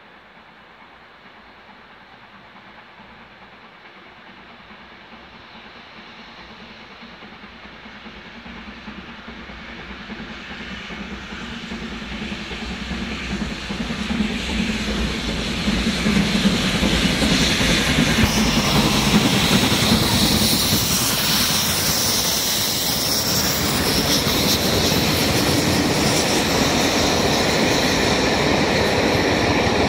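Passenger train approaching and passing close by: its rumble builds slowly for about sixteen seconds, then loud, steady wheel-on-rail noise with a clickety-clack as the coaches go past.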